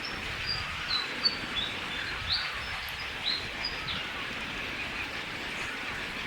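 A bird chirping: a string of short, high notes over the first four seconds, over a steady hiss of outdoor background noise.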